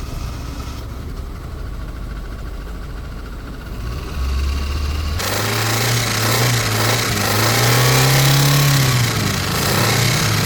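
Car engine running at idle, then revved from about five seconds in, its pitch climbing and easing back while held up for several seconds.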